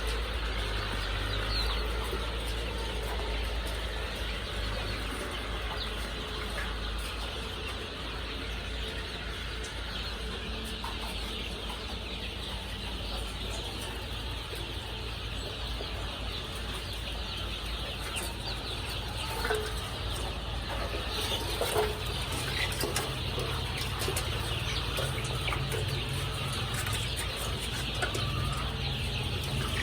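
A flock of layer chickens calling together, a dense continuous chatter of cheeps and clucks with a few louder calls about two-thirds of the way through, over a steady low hum.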